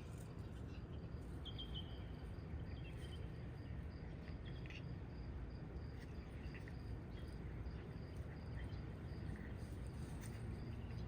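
Crickets chirping steadily in outdoor ambience over a low background rumble, with a few short high chirps early on.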